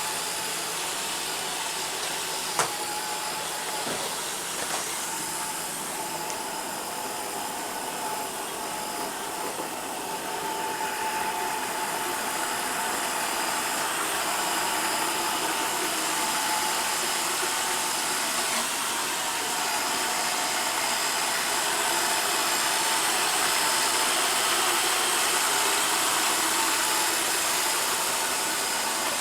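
Roomba Sage robot vacuum running: the steady whir of its vacuum motor and brushes, with a single sharp click about two and a half seconds in.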